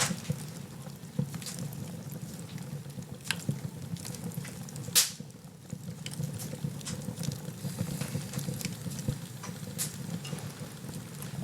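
Wood fire in a fireplace crackling, with irregular small pops over a steady low rumble, and one sharp loud pop about five seconds in.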